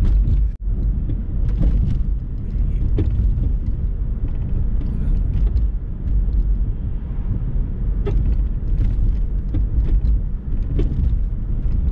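Inside a 2007 Hyundai Sonata driving over an uneven road: steady low road rumble with a few separate clunks from the front passenger-side suspension as it goes over bumps. It is the sign of something loose, which the owner suspects is a bad strut.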